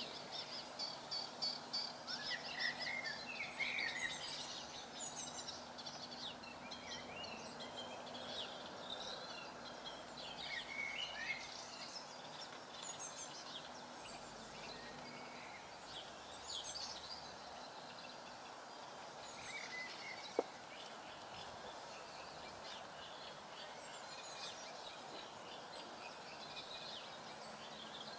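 Several small songbirds chirping and singing, busiest in the first half, over a steady outdoor background hiss. A single sharp click comes about twenty seconds in.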